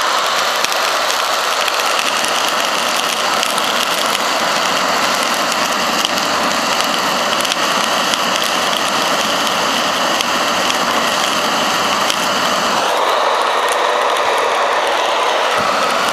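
Handheld hair dryer running steadily, its fan and airflow a steady rush with a faint whine, blowing air onto burning lump charcoal to make it burn down faster. Its sound changes about thirteen seconds in, losing some of its low end.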